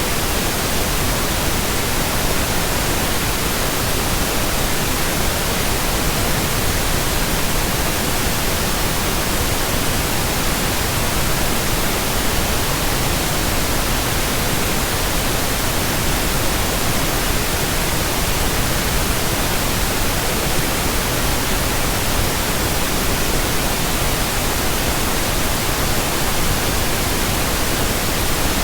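Steady pink noise: an even, unchanging hiss across the whole range with no breaks.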